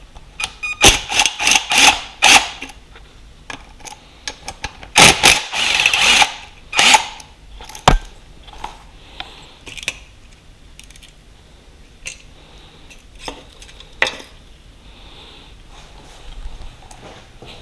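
Hand tools and small metal bike parts being handled during disassembly: irregular clinks, knocks and clatter. They come in two busy bursts, about a second in and again around five seconds in, then thin out to scattered single clicks.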